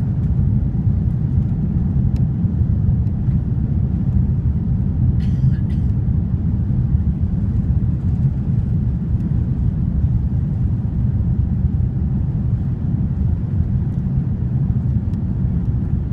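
Steady low roar of a Finnair Airbus A350-941 and its Rolls-Royce Trent XWB engines in the climb after takeoff, with a brief light rattle about five seconds in.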